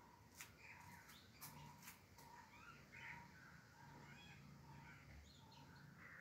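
Faint birds chirping and calling, with short repeated notes and a few soft clicks in the first couple of seconds.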